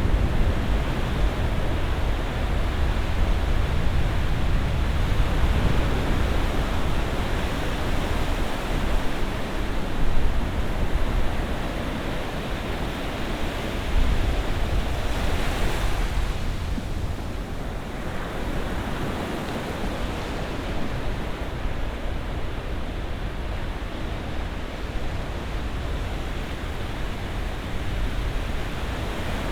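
Ocean surf: a steady wash of waves breaking on the shore, with one wave surging up loudly about halfway through.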